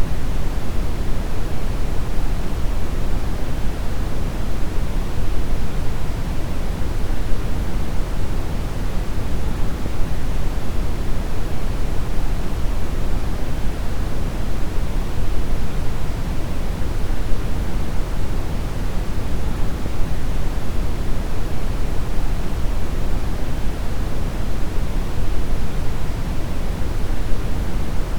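Steady brown noise: a deep, even hiss with most of its weight in the low end, unchanging throughout.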